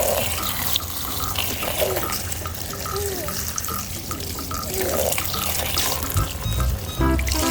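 Water running from a tap, splashing as muddy toy vehicles are rinsed under it, over light background music.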